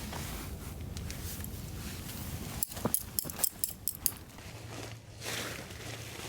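Footsteps and rustling, with a quick run of sharp clicks and knocks in the middle.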